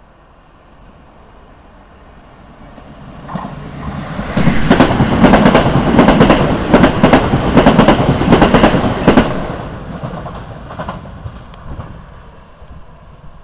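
A coupled pair of Class 334 Juniper electric multiple units running through the station at speed. A rumble swells as the train approaches, then comes a loud clatter of wheels on rail with many sharp clicks for about five seconds as the carriages pass close by, and the sound fades as the train draws away.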